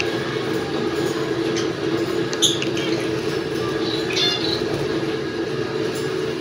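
Small caged birds chirping in short calls, about two and a half and four seconds in, over a steady low hum.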